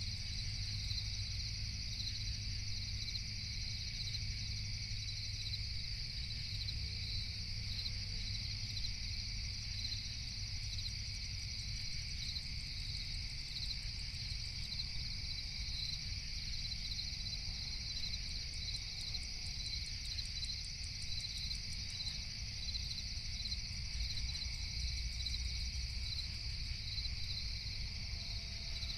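Crickets chirping in a steady, dense night chorus of fast, even pulses, over a low steady rumble.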